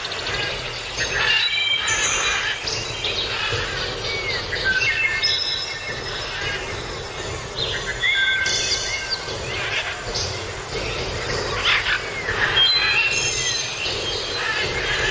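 Many birds chirping and calling over one another: quick chirps and short whistled notes, some sliding in pitch, over a steady background noise.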